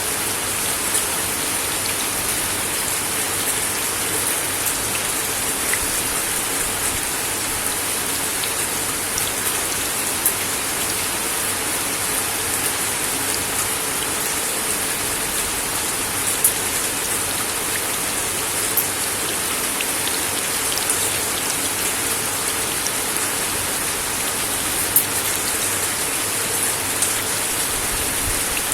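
Steady rain falling on a wooden deck, a constant hiss with scattered louder drips ticking on the boards.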